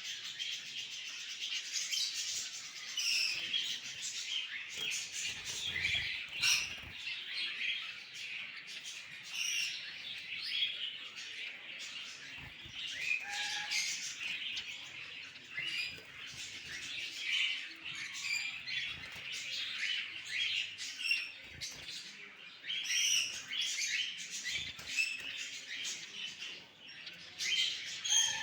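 Cockatiels chirping and calling without pause, many short high calls overlapping, with a few soft low thumps now and then.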